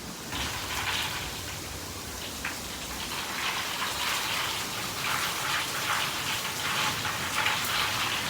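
Thunderstorm rain falling steadily, a dense hiss of drops striking surfaces that grows heavier about three seconds in.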